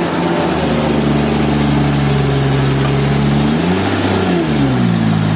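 An engine running steadily, then revving up about three and a half seconds in and dropping back down a second later.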